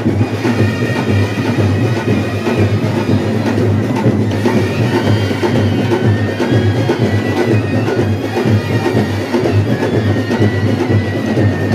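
Loud, dense drumming with a high, wavering reed or pipe melody playing over it.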